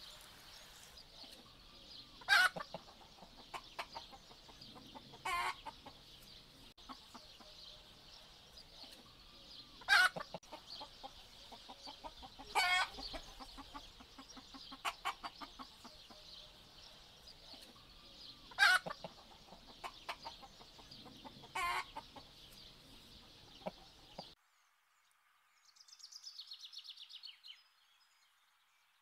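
A flock of domestic hens clucking, with a steady high chatter and six loud squawking calls spaced a few seconds apart. The flock sound stops abruptly about four-fifths of the way through, and a short faint call follows.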